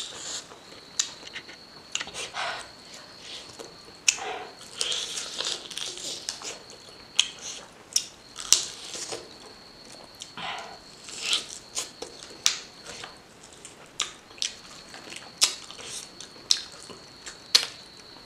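Close-miked eating sounds of a person chewing pork with her mouth open: irregular wet smacks and sharp mouth clicks, with fingers tearing meat off a bone.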